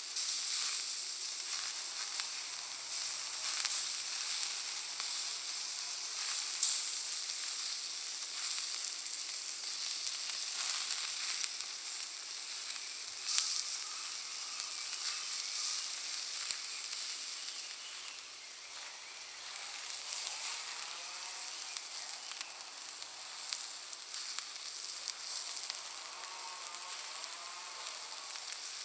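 Bonfire of firewood and Iwate cut charcoal burning, with sharp irregular crackles and pops over a steady sizzling hiss.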